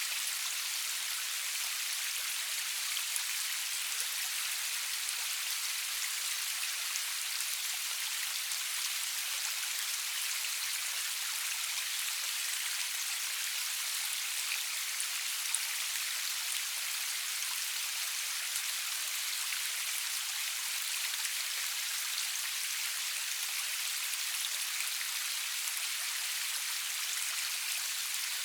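Steady rain falling, an even hiss of many drops with small scattered drop ticks, with no thunder.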